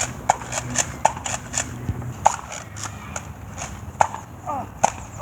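Irregular sharp clicks and knocks, a few a second, with a low steady hum under them for the first two seconds.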